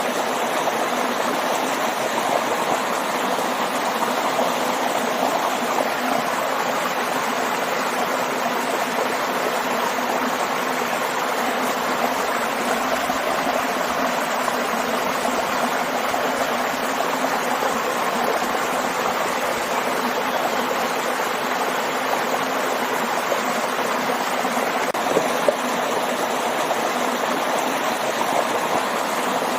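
A waterfall and stream running: a steady, even rush of falling and flowing water.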